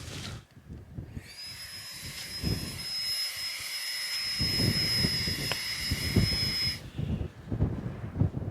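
Wind gusting against the microphone in uneven low rumbles. For about five seconds, from about a second in, a steady high-pitched whine of several tones sounds over it and then cuts off suddenly.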